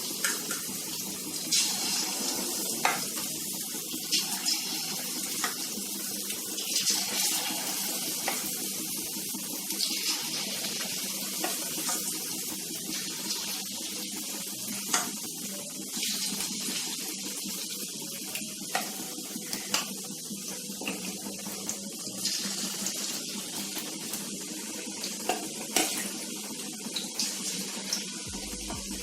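Battered chicken pakoras deep-frying in hot oil: a steady sizzle with frequent small pops and crackles.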